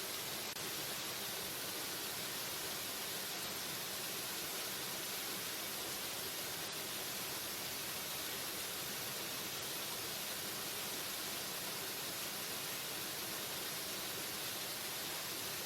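Waterfall: a steady, unbroken rush of falling water, an even hiss weighted toward the high end.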